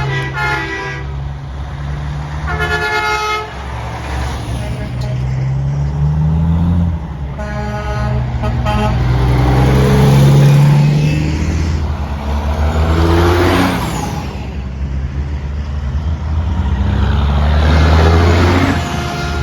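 Convoy of trucks passing close by, blowing horns in three short blasts near the start, about three seconds in and about eight seconds in. Diesel engines run underneath, rising in pitch as the trucks pull past, with louder pass-bys about thirteen and eighteen seconds in.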